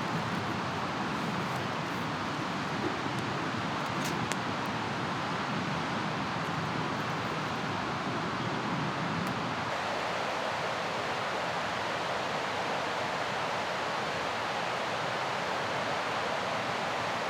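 Mountain river rushing steadily. There are a couple of faint clicks about four seconds in and again near the middle.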